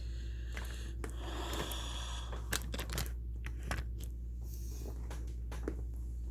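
A spoon mixing food in a bowl: scattered light clicks and scrapes over a steady low hum.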